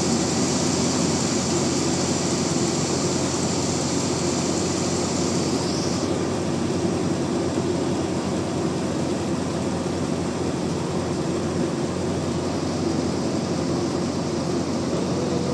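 Band sawmill running steadily, a constant machine drone with a low hum. A high hiss on top of it stops with a short falling glide about six seconds in, while the drone carries on.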